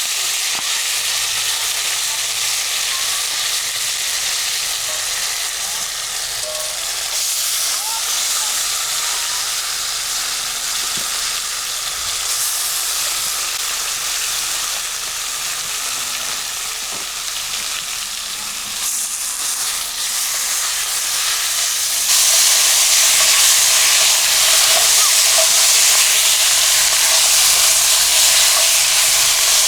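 Food sizzling as it fries in hot oil over a campfire, a steady crackling hiss that gets louder about 22 seconds in.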